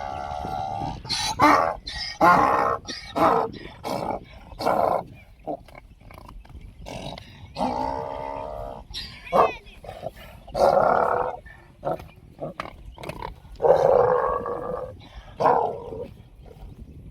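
Donkeys braying, several drawn-out calls one after another, with short sharp sounds in between.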